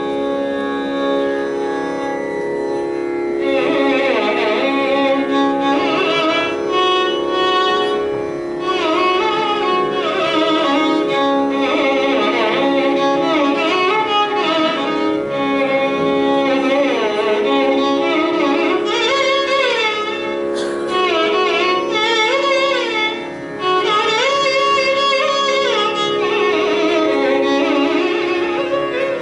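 Carnatic music with violin: an ornamented melody full of sliding notes over a steady drone.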